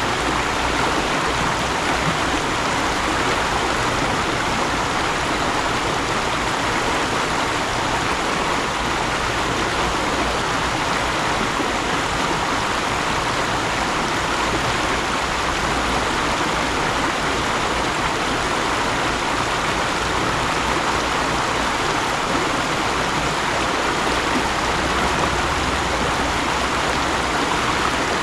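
Mountain stream, water rushing and babbling over rocks at a steady level.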